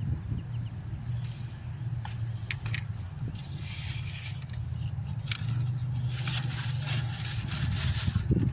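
Intermittent scraping and crackling over a steady low hum, with a few sharp clicks.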